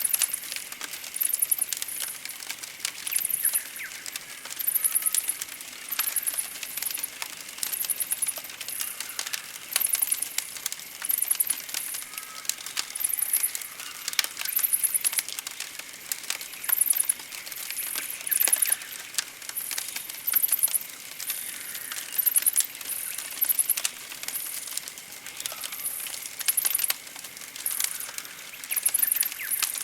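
Campfire crackling with frequent sharp pops and snaps, with birds singing: very high, fine trills repeating every second or so, and now and then a lower chirp.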